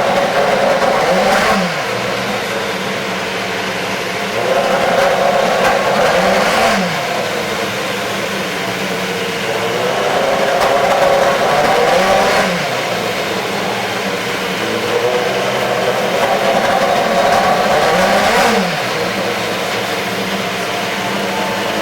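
Super Formula car's Toyota 2.0-litre turbocharged four-cylinder engine warming up: it is raised to a higher rev and held for a couple of seconds about four times, each time falling back to a lower steady running speed.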